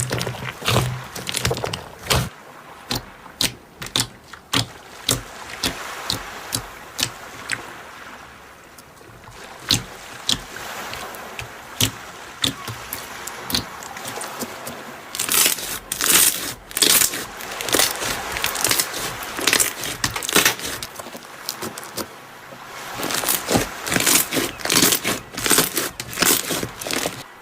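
Slime being squeezed and poked by hand: a long run of sharp, wet clicks and pops. They come thickest about halfway through and again near the end.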